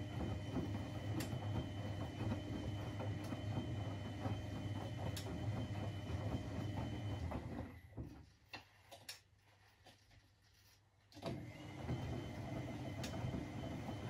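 Privileg 3001 S washing machine's gear motor turning the drum with a steady low hum and light regular clicks. About eight seconds in it stops, and after about three seconds of quiet with a few clicks it starts up again, the stop-start rhythm of a washing machine's wash action.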